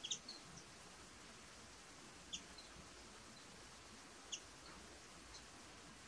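Short, high chirps from a small bird, three clearer ones about two seconds apart and a few fainter ones, over a faint outdoor hiss.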